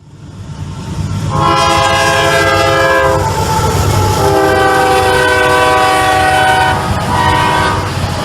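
CSX freight locomotive's multi-note air horn sounding two long blasts and then a short one, the long-long-short opening of a grade-crossing signal. Underneath is the low rumble of the passing train.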